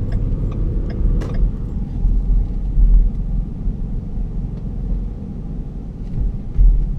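Low rumble of road and running gear inside the cabin of a 2011 Ford Flex Limited coasting slowly off the gas, with a few faint ticks.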